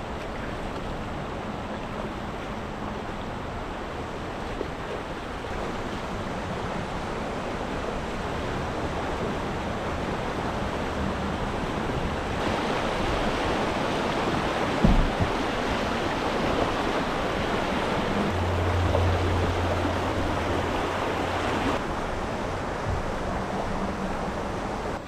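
Steady rushing noise of moving water, swelling toward the middle. There is a single knock about fifteen seconds in.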